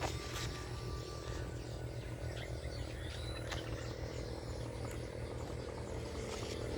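Outdoor ambience: a steady low rumble with a few faint, brief bird chirps.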